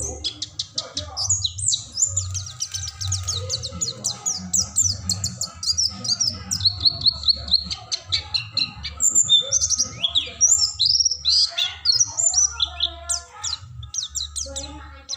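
Male mountain white-eyes (pleci gunung) calling hard at each other during a fight between two males: rapid high chirps and twittering trills, many notes a second, mostly short falling notes, with a few brief pauses.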